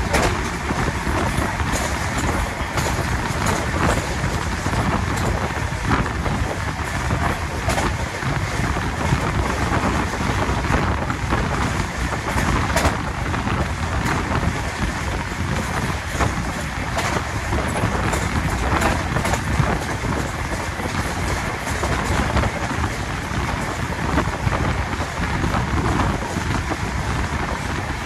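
Running noise of a fast-moving train heard from outside an open carriage window: a steady rush of wind on the microphone over the rumble of the wheels, with irregular clicks of the wheels on the rails.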